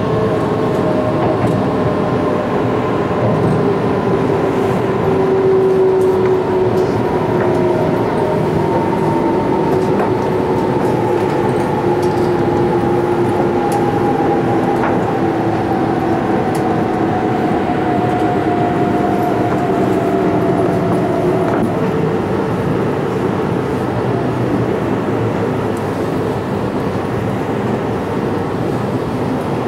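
Running noise of an E4 Series Shinkansen heard from inside its deck: a steady rumble of wheels on rail with a motor whine that falls slowly in pitch as the train brakes into a station, the whine fading out about three-quarters of the way through.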